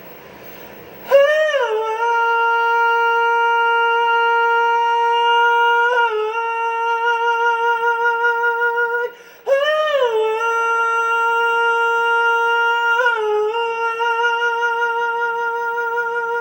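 A man humming long held notes at one steady pitch between sung verses. Each note opens with a quick scoop up and back down, and there is a short break for breath about nine seconds in.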